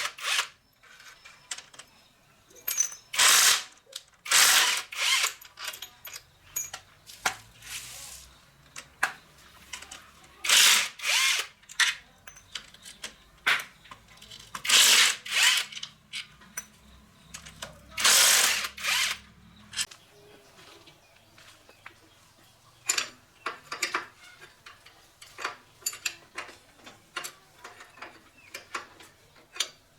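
Hand tools working on diesel engine parts: repeated short bursts of ratcheting and rasping. About two-thirds of the way through they give way to a run of light, scattered metal clicks.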